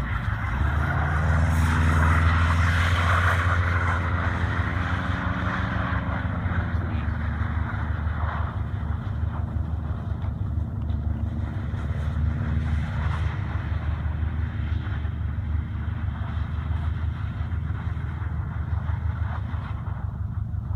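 Stage 2 tuned 2010 Subaru Forester XT's turbocharged 2.5-litre flat-four revving hard as the car slides around on ice. The engine note climbs about a second in, is loudest for a couple of seconds, then settles to a lower, steady run for the rest of the time.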